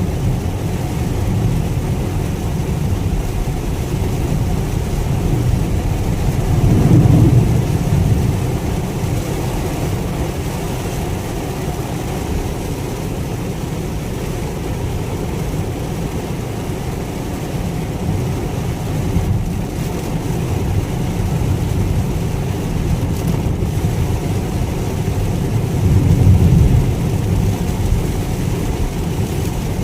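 Cabin noise inside a 2022 Mitsubishi Xpander CVT driving through heavy rain: a steady low rumble of rain, road and engine muffled by the car's body. It swells louder twice, about a quarter of the way in and near the end.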